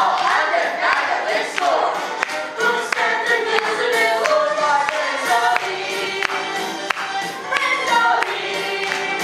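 A cast of young performers singing together in chorus in a stage-musical number, over a musical accompaniment with a steady beat.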